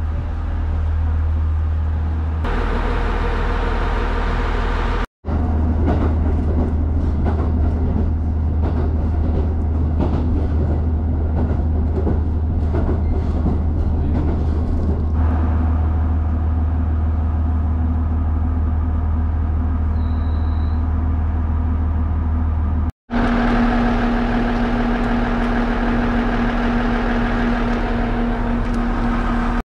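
Diesel railcar running, heard from on board: a steady low engine drone with rattling rail noise. It comes as several edited clips, broken by two brief sudden silences.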